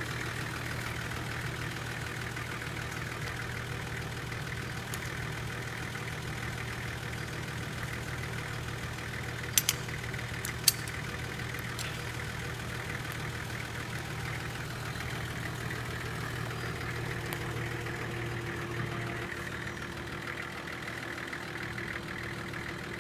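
Off-road 4x4 engine idling steadily, with a couple of sharp clicks about ten seconds in.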